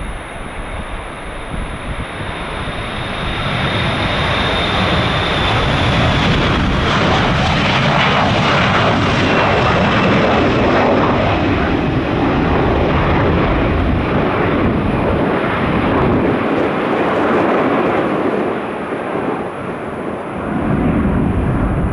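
Jet airliner engines passing: a loud rushing roar builds over the first few seconds and holds, with a high whine that slides down in pitch, then eases briefly near the end before swelling again. Wind buffets the microphone underneath.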